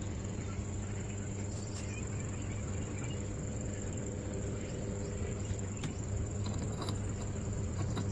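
Steady machine hum with a low drone, an even hiss and a few faint ticks, typical of a workshop motor running.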